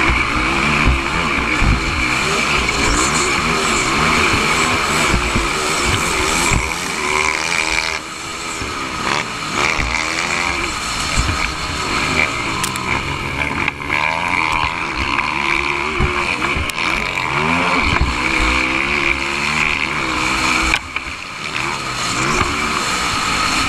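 Motocross dirt-bike engines racing, their pitch rising and falling again and again as the riders rev through the track.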